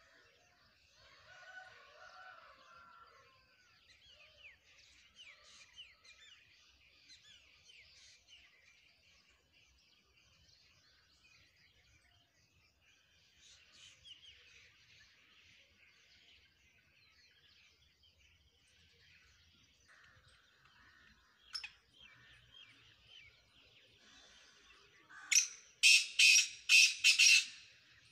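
Faint chirping of birds, then near the end a loud, harsh call of about five rapid notes, typical of a black francolin (kala teetar).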